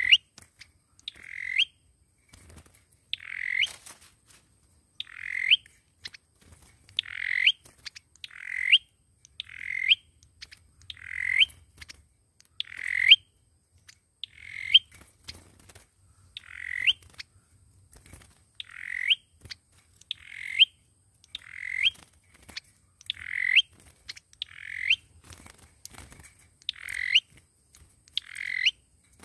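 A sâu dừa bird's call repeated about once a second, each a short note that sweeps up in pitch to a sharp high end.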